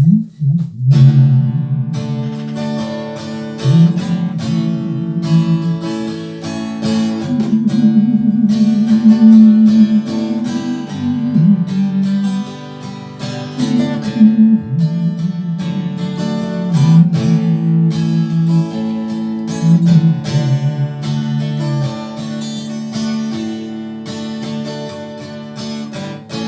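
Solo acoustic guitar, picked, playing an introduction through D, A and G chords.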